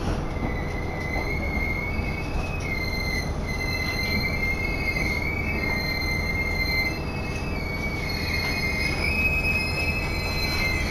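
Diesel railcar running with a steady low rumble and a high-pitched, wavering squeal from its wheels and brakes that starts about half a second in, as the train slows for a station stop.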